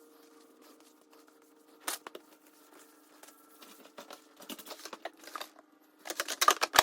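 Scattered clicks and rustling of containers and food packages being handled, over a faint steady hum, with a louder run of clattering near the end.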